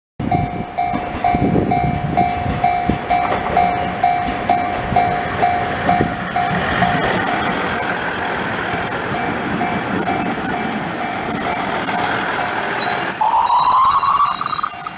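A train rolling past a level crossing: the crossing bell rings over and over, about two to three strikes a second, above the steady rumble of the train. High-pitched wheel squeal sets in about five seconds in, and a rising whine follows near the end.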